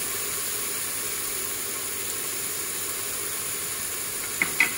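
Garlic, ginger and sliced red onion sizzling steadily in hot olive oil in a pressure cooker's inner pot, with a couple of short knocks near the end.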